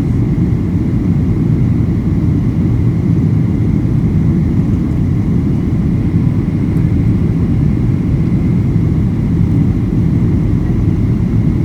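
Steady low rumble and rush of engine and airflow noise inside the cabin of a Boeing 737-800 airliner, with a faint steady whine above it.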